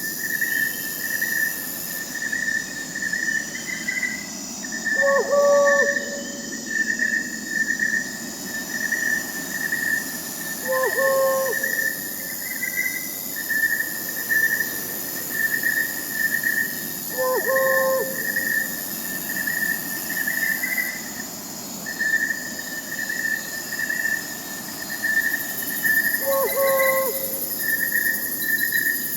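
Crickets chirping in a steady, rapid pulsing trill, with a high insect hum above. An owl hoots four times at even intervals of about six seconds.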